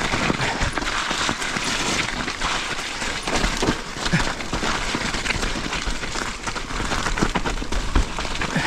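Mountain bike riding over a dirt trail: steady tyre and rolling noise with frequent sharp clatters and knocks from the chain and frame over rough ground.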